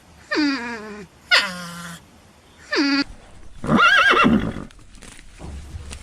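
Animal calls: three short calls that each drop sharply in pitch, then a longer call with a wavering pitch about four seconds in.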